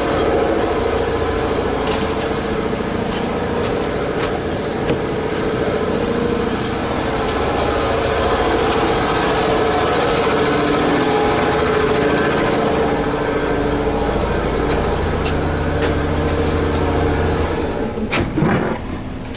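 Bead-blasting cabinet in use: a steady, loud hiss of blast air and media, with a motor running underneath. The blasting cuts off suddenly near the end, followed by a few clicks and knocks.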